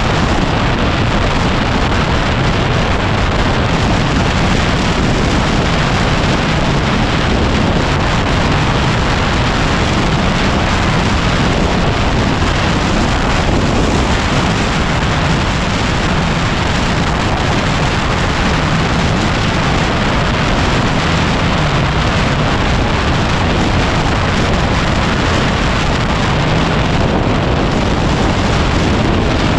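Heavy, steady wind buffeting on the microphone of a moving motorcycle, with the 2010 Yamaha WR250R's single-cylinder engine running faintly beneath it.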